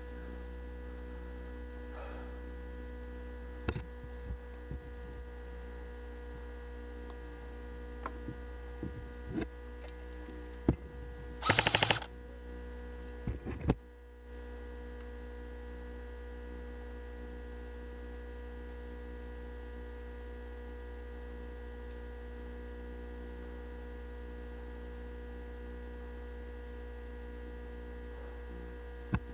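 Steady electrical hum from the recorder. A little before halfway an airsoft gun fires a rapid burst of shots lasting about half a second, with a few single snaps and clicks scattered around it.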